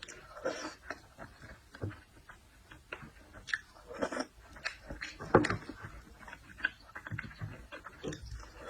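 A person chewing seafood close to the microphone, with irregular wet clicks and smacks of the mouth.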